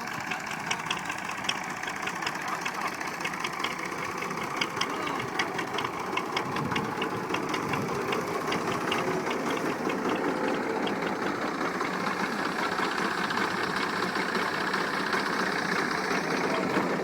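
An old tractor engine running, with a quick train of sharp clicks over the first half. The engine sound grows louder about halfway through.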